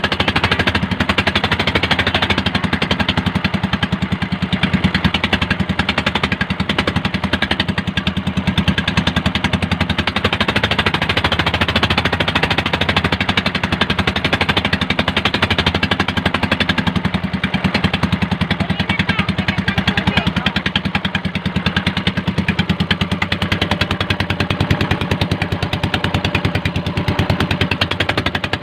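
Bangka (outrigger boat) engine running steadily, a fast, even chatter of exhaust pulses.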